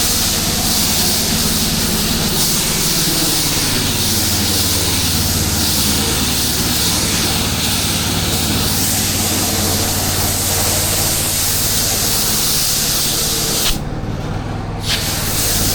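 Pressure washer at work: its engine runs steadily under the hiss of the high-pressure water spray. The spray cuts out for about a second near the end while the engine keeps running.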